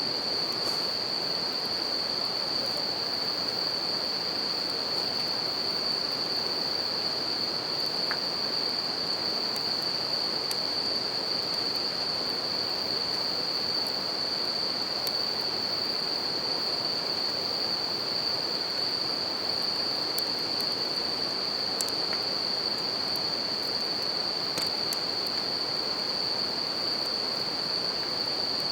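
Bell crickets (suzumushi) singing in a steady, unbroken high chorus over the constant rush of a river, with a few sharp crackles from a campfire.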